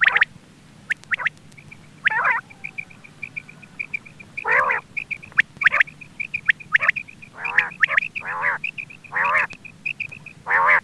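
Quail calling: short repeated calls, each with a wavering pitch, over a quick run of short high notes at about four a second that stops shortly before the end.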